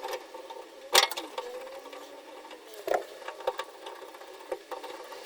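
Small metal clicks and taps as a fuel tank sender unit and its screws are fitted by hand, about five sharp clicks spread out, the loudest about a second in.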